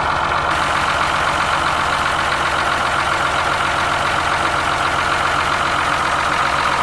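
Ashok Leyland bus diesel engine idling steadily with an even, rhythmic beat, running after standing unused for five or six years.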